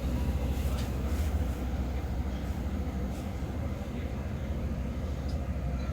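Steady low rumble of a Boeing 777-300 airliner's cabin, with a few faint clicks over it.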